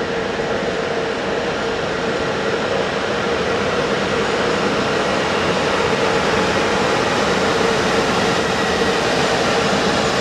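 Railway locomotive running during shunting moves, a steady mechanical hum with a strong held tone, growing slowly louder.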